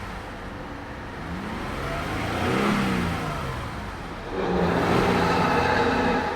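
2003 Audi Allroad's 2.7-litre twin-turbo V6 revved twice from idle: the first rev climbs to a peak about two to three seconds in and falls back, and the second comes about four seconds in and is held briefly before dropping near the end.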